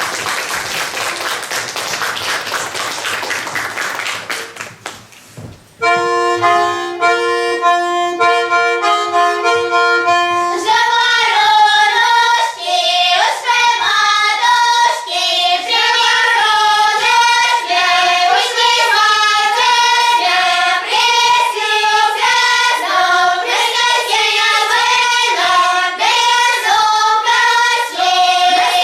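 Audience applause for about four seconds. Then an instrumental introduction of held, sustained chords, followed by a group of children singing with accompaniment.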